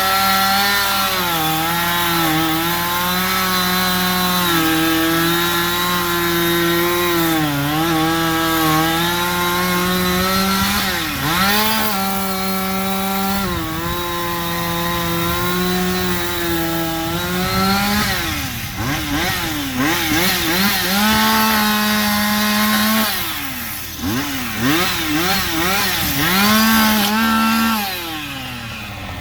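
Two-stroke chainsaw running at high revs and cutting wood, its engine note sagging under load and picking back up. In the second half the throttle is let off and blipped several times in quick dips and rises.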